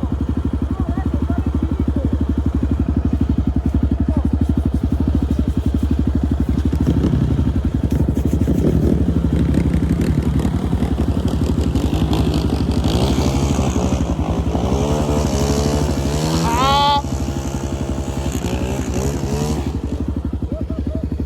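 Single-cylinder trail motorcycle engine idling close by with a steady low chug. From about seven seconds in, a motorcycle engine revs up and down in uneven steps, with a sharp rise near the end, as the riders try to get through the mud on worn, treadless tyres.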